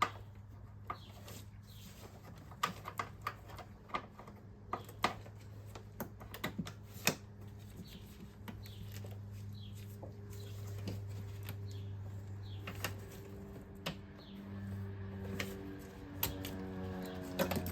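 Irregular sharp clicks and clinks of hand tools and plastic fittings as coolant hoses and electrical connectors are worked off an engine, with a steady low hum underneath.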